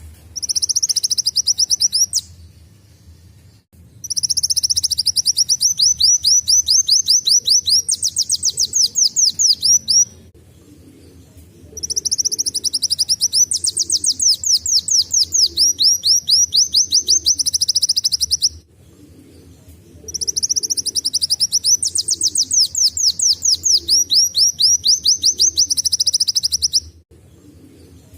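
Kolibri wulung sunbird singing long, rapid trilled phrases that imitate a canary's song, in four bouts of several seconds each with short pauses between them.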